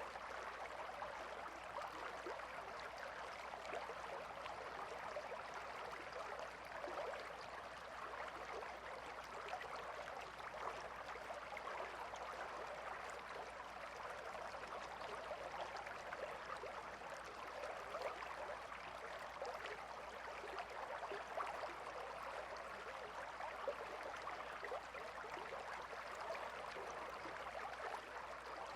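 A shallow river or stream babbling and trickling steadily, many small splashes over an even rush of water.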